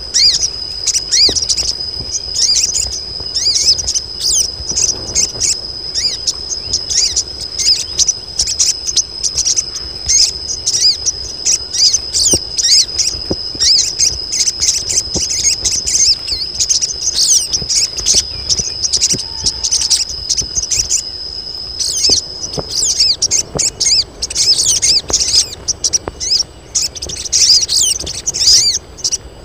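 Several female crimson sunbirds chattering in a dense run of quick, high chips and twitters, the excited calling of birds in breeding condition that is used to draw males. A steady high whine sounds under them and stops about two-thirds of the way through.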